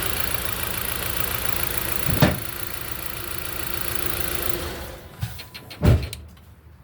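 Jeep Compass inline-four idling with a misfire, cylinder number 3 not firing, then switched off about five seconds in. There is a sharp thump about two seconds in and another just before the end.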